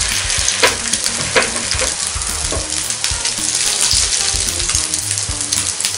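Mutton chapli kababs frying in oil on a nonstick tawa over a low gas flame: a steady sizzle with occasional sharp pops.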